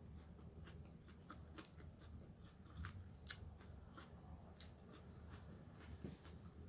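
Faint close-up chewing of raw vegetable salad, with irregular crisp crunches of leafy greens and vegetables.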